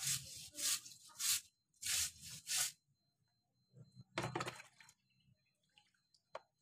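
A run of short, rhythmic scraping or brushing strokes, about two a second, stopping before the halfway point; one more stroke follows, then a single sharp click near the end.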